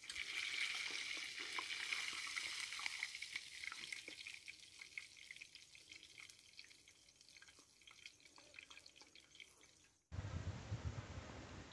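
Fish frying in hot oil: a sizzle with many small pops and crackles, loudest in the first few seconds and then dying down. Near the end it cuts suddenly to a low rumbling noise.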